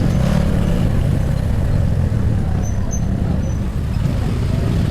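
Motorcycle on the move: a steady, unbroken low rumble of engine and road noise.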